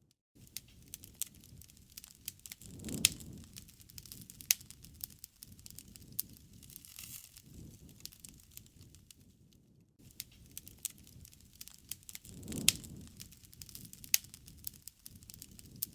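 Wood campfire crackling, with irregular sharp pops and snaps over a low rumble of flames that swells twice. The sound cuts out briefly at the start and again about ten seconds in.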